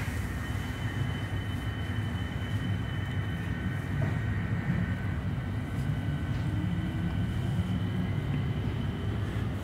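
Electric suburban train pulling away from a station, heard from inside the carriage: a steady low rumble, with a faint whine that rises in pitch from about halfway through as the train picks up speed.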